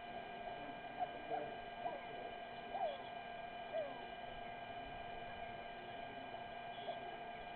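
Steady electrical hum made of several fixed tones, with a handful of short gliding chirps in the first four seconds.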